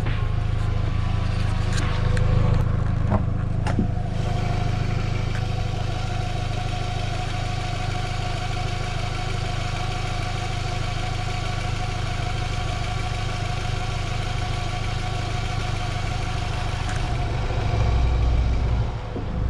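VW Passat B5.5's 2.0-litre petrol four-cylinder engine idling steadily, with a few light clicks about two to four seconds in.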